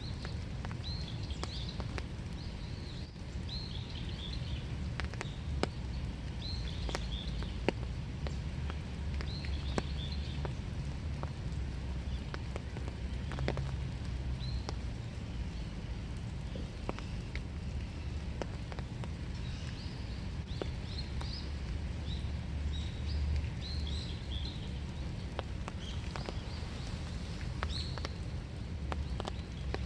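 Light winter rain with scattered drops ticking, while small birds chirp in short repeated bursts every second or two. A steady low rumble runs underneath.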